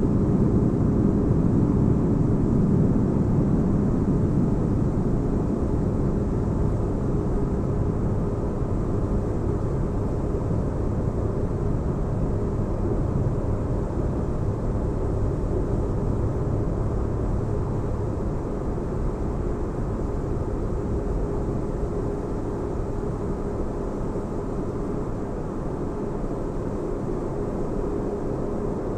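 Sci-fi spaceship-interior ambience: a steady deep rumbling hum with a faint held tone above it, easing slightly quieter over the stretch.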